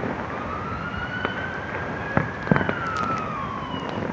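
Distant ambulance siren in a slow wail, its pitch rising for about two seconds and then falling away. Scattered sharp pops from fireworks sound over it, the loudest a little past halfway.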